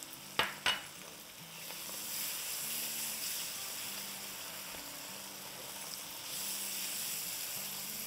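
Tomato-and-spice masala with red bell pepper strips and green chillies sizzling in a wok while being stirred with a silicone spatula. Two short knocks come about half a second in, then a steady sizzle.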